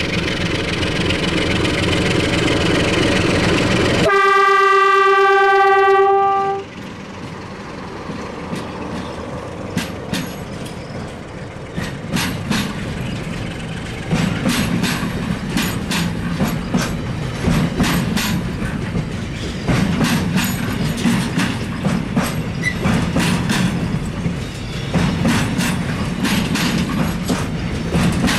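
Romanian class 060-DA diesel-electric locomotive's Sulzer V12 engine working as it pulls a heavy container train away. About four seconds in it sounds one long single-note horn blast lasting over two seconds. After that the loaded container wagons roll past close by, their wheels clicking and rumbling over the track.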